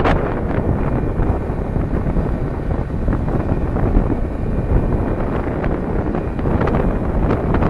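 Heavy wind buffeting on the microphone, a gusty low rumble over a running vehicle underneath.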